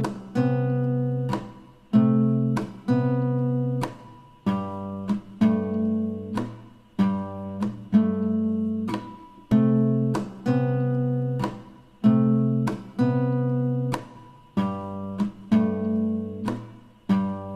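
Background music: an acoustic guitar strummed in steady chords, about one stroke a second, each ringing out before the next.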